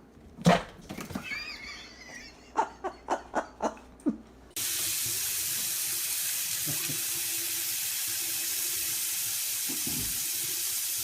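A loud knock and a brief wavering pitched sound, then five quick sharp taps. About halfway through, water starts suddenly and runs steadily, like a tap at full flow.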